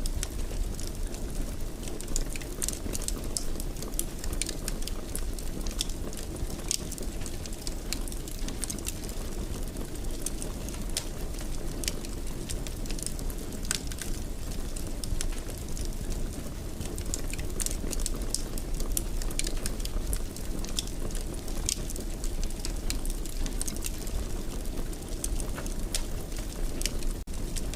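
Fire burning in a fireplace: irregular sharp crackles and pops over a steady low rush of the flames.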